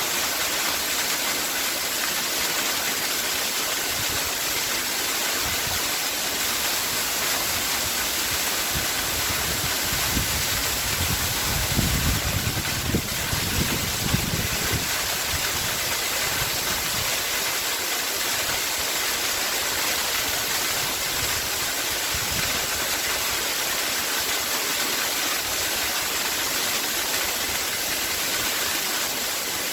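Waterfall: a steady, even rush of falling water. Midway through, a deeper low rumble swells for a few seconds and then fades back into the rush.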